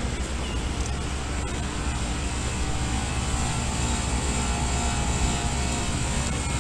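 Carrier heat-pump outdoor units running: a steady drone of condenser fan and scroll compressor with a low electrical hum, no starts or stops.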